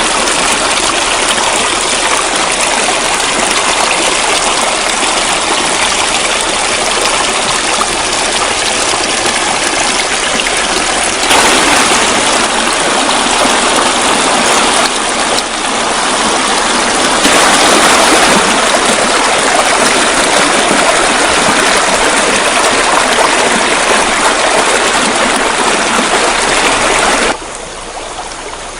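Steady rushing of flowing water, like a stream, that drops noticeably in level near the end.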